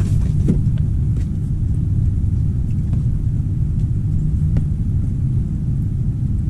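Strong wind buffeting the microphone: a steady low rumble, with a few faint clicks over it.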